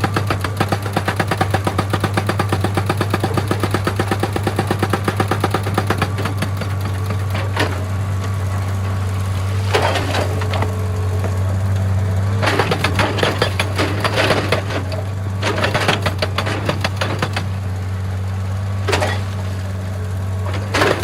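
Excavator's diesel engine running with a steady low drone, under fast, even, repeated hammering. The hammering is dense in the first seven seconds, then comes back in shorter spells about ten, thirteen, sixteen and nineteen seconds in.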